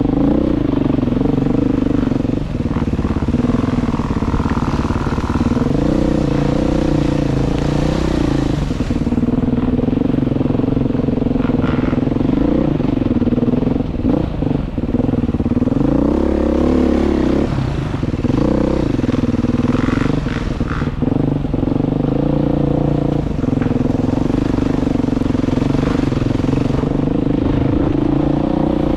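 Motorcycle engine running steadily under way, its pitch rising and falling a little with the throttle, with a short dip about two-thirds of the way through.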